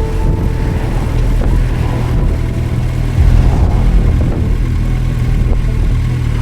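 Suzuki GSX1250FA inline-four engine running on the move, with rushing noise over it; it gets louder about three seconds in.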